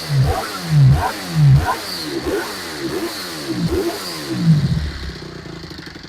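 Honda CRF250R's single-cylinder four-stroke engine revved in a string of short, sharp throttle blips, each rising and falling quickly. It settles back to a quieter idle in the last second or so.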